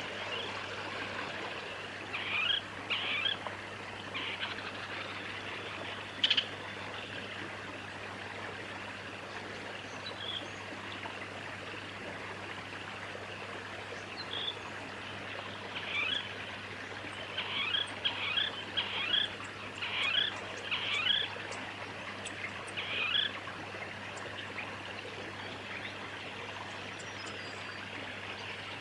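Sacred kingfisher calling in runs of short, sharp, downslurred notes: a brief run about two seconds in, a single note near six seconds, then a longer series in the second half. A steady hiss of background noise lies under the calls.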